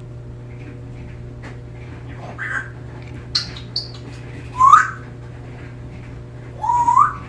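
African grey parrot whistling and chirping: a rough call, two short high chirps, then two louder rising whistles, the last climbing in steps.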